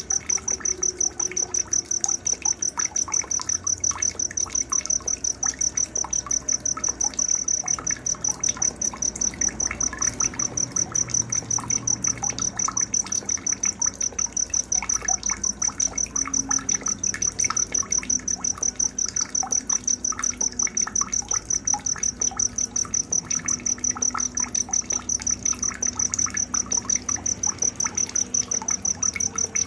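Night ambience: a cricket chirping, a high, evenly pulsing trill several times a second, with scattered short bird chirps beneath it.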